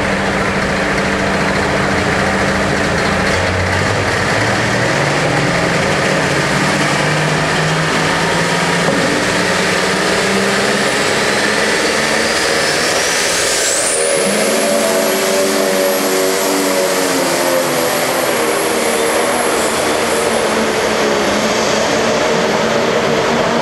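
Pulling tractor's engine running hard at full power during a pull. A high whine climbs steeply about twelve to fourteen seconds in, then holds steady to the end.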